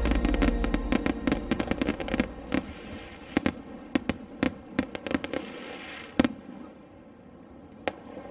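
Fireworks crackling and popping in quick, irregular cracks, densest at first and then thinning out, with one louder bang about six seconds in. Music fades out at the start.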